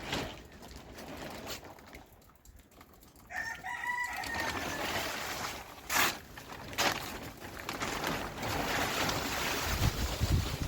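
A rooster crows once, a little over three seconds in, its call falling slightly at the end. Steady wind noise runs underneath from then on, with two sharp knocks near the middle.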